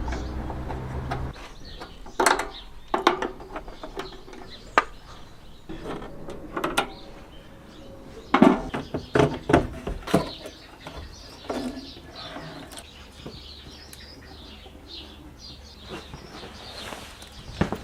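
Scattered knocks and clicks of hand tools and metal parts being worked during removal of a Smiths car heater box. A low hum cuts off about a second in.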